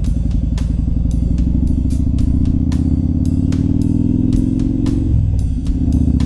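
Motorcycle engine pulling under acceleration, its pitch slowly rising. It drops back about five seconds in as it shifts up a gear, then climbs again. Music with a drum beat plays alongside.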